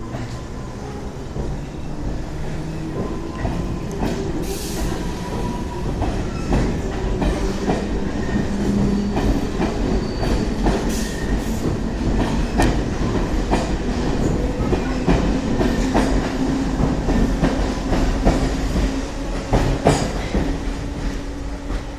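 London Underground C stock train running along the track. Its wheels click rapidly over rail joints over a low rumble and hum, and the sound grows louder over the first several seconds.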